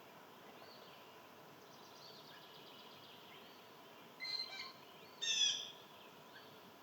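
Wild birds calling: faint high trilling song in the first half, then two short, loud, harsh calls about a second apart, the second the loudest.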